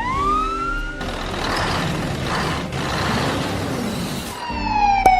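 Vehicle sound effects: a rising whine that levels off, a noisy engine rush for about three seconds, then a steadily falling whine near the end, with one sharp click.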